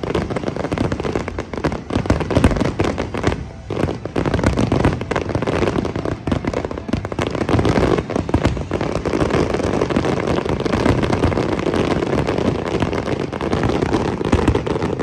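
Fireworks display: a dense, continuous barrage of bangs and crackling, with a short lull about three and a half seconds in.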